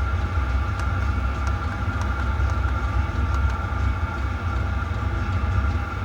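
6 kW diesel air heater running steadily at its highest setting: a low rumble with a steady fan whine above it, and a few faint ticks from its fuel pump.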